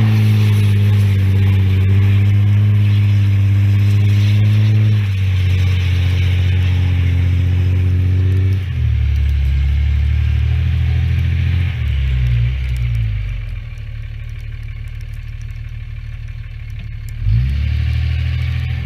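A motor vehicle engine running under load, its pitch shifting in steps a few times. It eases off to a quieter run about two-thirds of the way through, then picks up again near the end.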